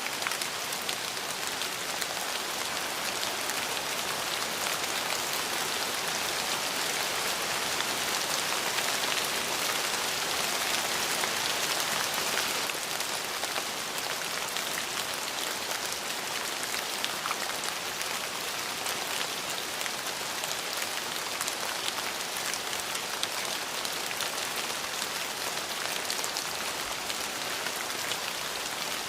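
Steady rainfall, a dense hiss of drops with fine pattering ticks, swelling slightly louder for a few seconds in the middle before settling back.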